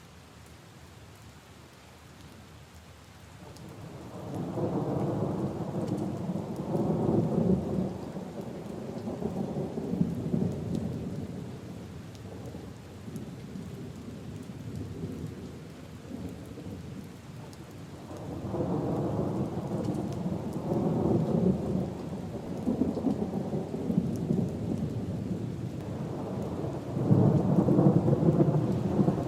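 Rain falling steadily, with three long rolls of thunder: the first building about four seconds in, another around eighteen seconds in, and the loudest near the end.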